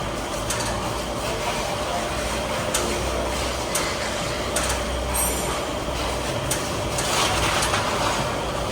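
Steady background rumble with scattered light clicks and taps, and a brief high-pitched squeak about five seconds in.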